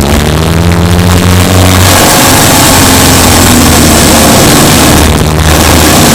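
Subaru Impreza Sport's 2.0-litre flat-four engine running while the car is driven, loud. The revs climb over the first two seconds, then a dense rushing noise covers the engine for about three seconds before its steady note comes back near the end.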